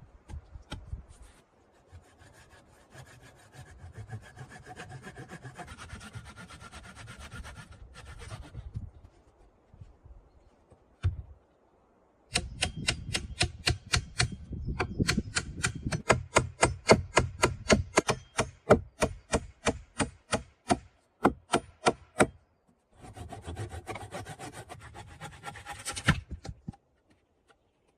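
Hand saw cutting through wood in steady back-and-forth strokes, in three bouts: a quieter one in the first third, a longer, louder run of about three strokes a second in the middle, and a short one near the end.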